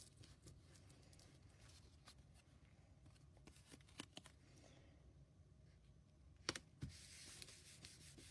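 Near silence with a few faint taps and rustles of paper and card being handled, the loudest pair about two-thirds of the way through.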